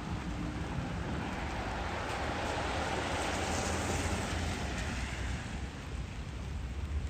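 A vehicle passing on a wet street: tyre hiss swells to a peak about four seconds in and fades, over a steady patter of rain and a low traffic rumble.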